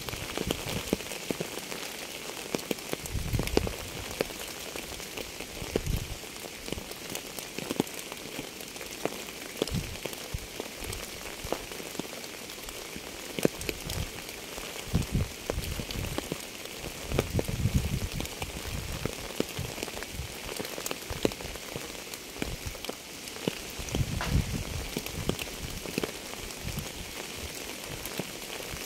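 Steady rain falling on a surface, with many individual drops ticking through it and now and then a louder, deeper thud.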